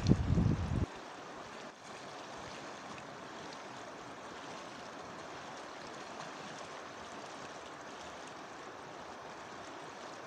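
River water rushing steadily. Wind buffets the microphone at the start and cuts off about a second in.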